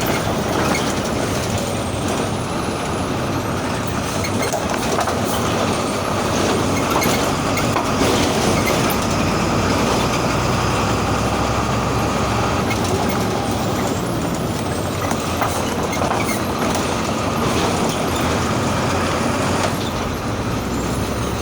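MWM 6.12 TCE 7.2-litre turbo-intercooled six-cylinder diesel of a VW 17-230 EOD bus running steadily at medium to high revs, with scattered short clicks and rattles.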